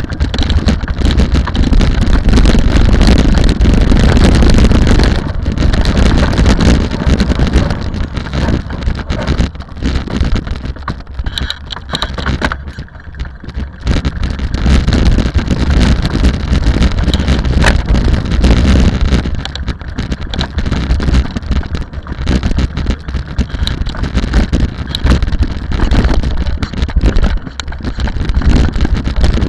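Rally car running at speed, with heavy wind buffeting on the microphone; the sound eases off briefly around the middle, then builds again.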